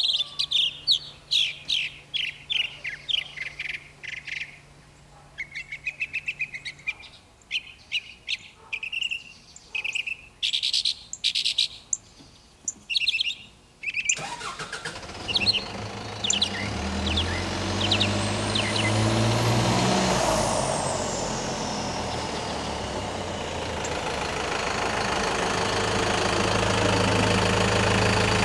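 Birds chirping in short repeated calls, then about halfway through an engine starts abruptly and keeps running steadily, with a high whine that rises and then falls away.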